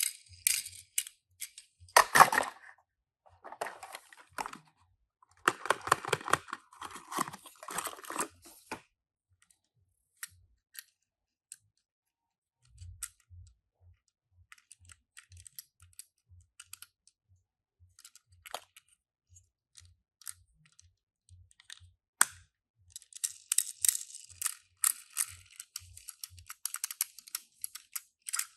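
Small clicks, taps and rustles of die-cast toy cars and their packaging being handled, in bursts with a quiet stretch of scattered single clicks in the middle.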